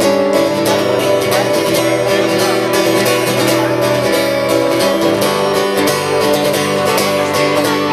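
Acoustic guitar strumming chords steadily in an instrumental break between sung verses.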